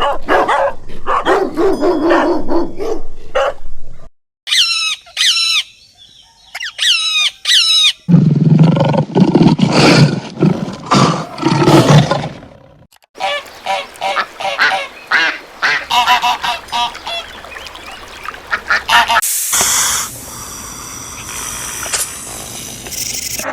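Waterfowl calling, ducks quacking and geese honking, in several short recordings cut one after another, each call repeated in quick runs.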